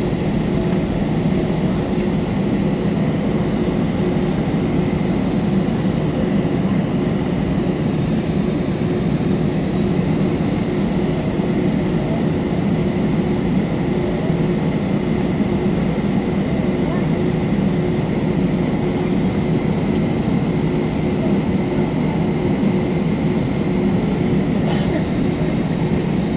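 Steady cabin noise inside an Airbus A320: an even engine and airflow drone with a steady hum and a faint high whine, holding level throughout.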